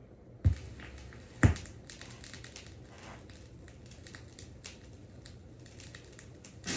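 Turntable stylus lowered onto a vinyl record: two low thumps, then light crackle and ticks of surface noise from the lead-in groove before the music begins.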